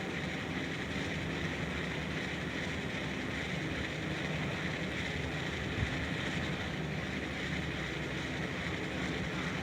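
Steady, even rushing ambient noise with a low hum underneath, like wind and moving water; it holds level without any distinct events.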